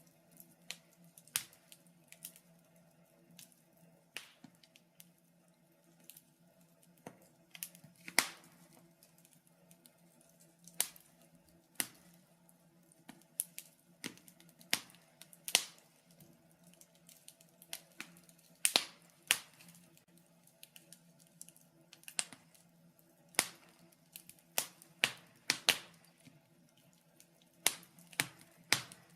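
Wood fire crackling in a fireplace: irregular sharp snaps and pops, roughly one or two a second, some much louder than others, over a faint steady hum.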